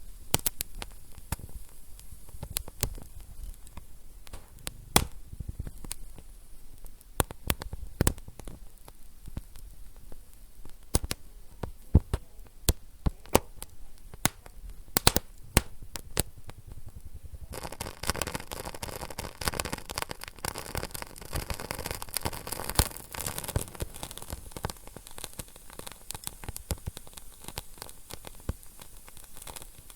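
Wood fire crackling in a fireplace: irregular sharp pops and snaps, some much louder than others. A bit past halfway a steady hiss joins the crackling.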